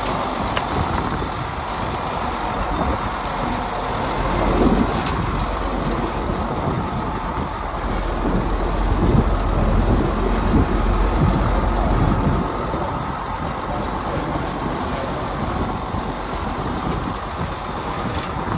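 Heavy diesel earthmoving machinery running steadily, with a few brief knocks and clatters.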